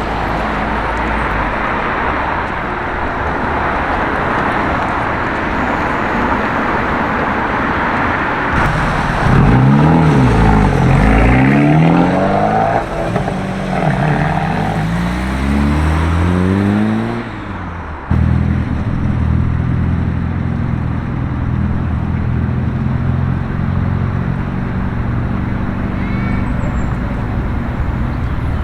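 Car traffic passing, then a car engine revving hard, its pitch climbing and falling several times, loudest about ten seconds in. After a sudden cut about eighteen seconds in, an engine runs steadily at idle.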